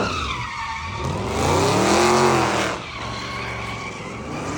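A car's engine revving hard, its pitch rising and falling twice, while the tires squeal in a slide; after about three seconds it drops to a lower, steadier engine sound.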